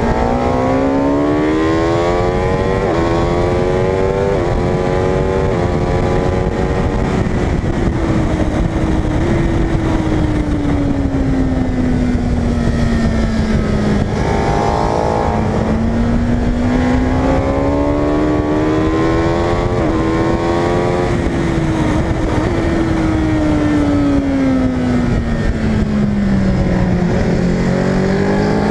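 Onboard superbike engine at racing speed on track. It pulls hard through the gears with quick stepped upshifts, drops in pitch into the corners twice, then climbs again near the end, with heavy wind rush underneath.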